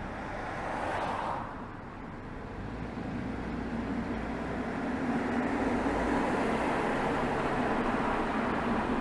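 Exhaust of a BMW 320xd's 2.0-litre four-cylinder turbodiesel (B47D20) while driving, with road noise. A brief whoosh comes about a second in; the exhaust then grows louder over the next few seconds and holds steady.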